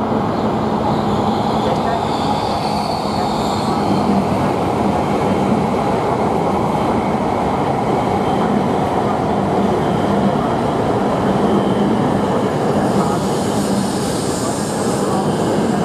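E5 series Shinkansen train rolling into the station, a steady rumble of its cars passing close by with a low hum. Faint high-pitched wheel squeals rise briefly about three seconds in and again near the end.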